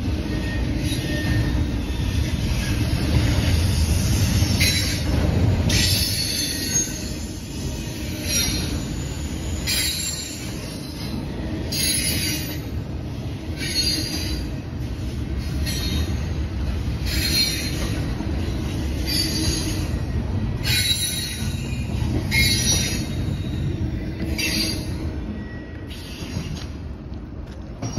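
Freight cars of a long Norfolk Southern manifest train rolling past: a steady low rumble, with a sharp high burst of wheel noise about every one and a half to two seconds as each car goes by.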